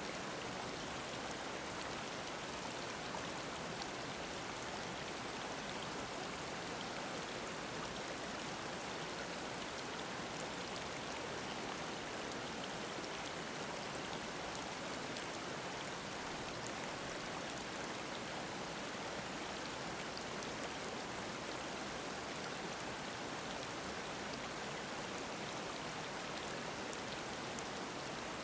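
Mountain stream running steadily: a constant, even wash of flowing water.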